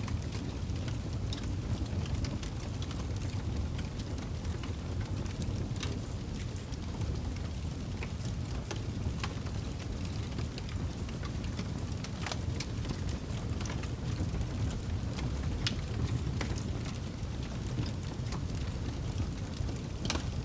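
Campfire burning: a steady low rush of flames with frequent sharp crackles and pops from the burning wood, a few louder pops standing out.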